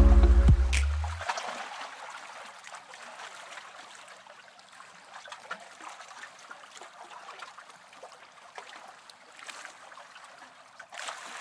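Background music cuts off about a second in, leaving faint trickling water with scattered small clicks.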